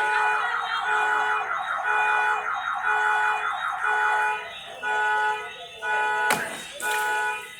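Car alarm going off: a horn tone honking about once a second under a warbling electronic siren. A sudden noisy burst cuts across it about six seconds in.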